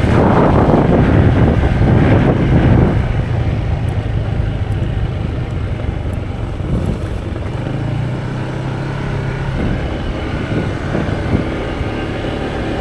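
Road vehicle engine running while on the move. A heavy rush of wind noise fills the first three seconds, then the engine hum runs steadier with a few held tones.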